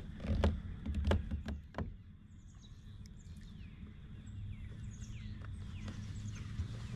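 Birds calling in repeated short chirps that slide downward in pitch, from about two seconds in. Before that, a few sharp clicks and knocks.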